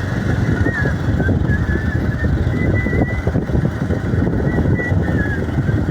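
Pulsar motorcycle riding along, with wind buffeting the microphone and a steady heavy rumble. A thin wavering whistle comes and goes over it several times.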